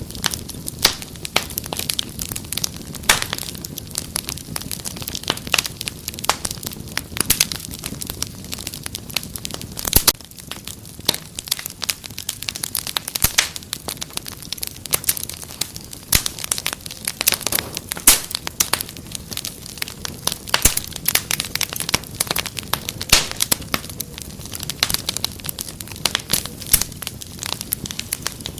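Fire in a fireplace crackling: a dense, irregular stream of snaps and pops over a steady low rustle of flames, with a few louder pops now and then.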